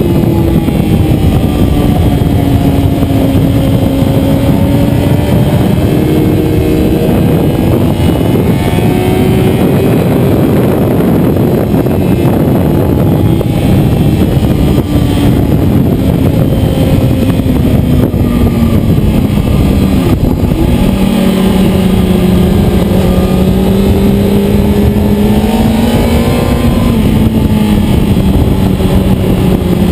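Motorcycle engine running hard at track speed, its pitch rising and falling with the throttle and dropping to a lower, steadier note about two-thirds of the way in, under a heavy, constant rush of wind noise.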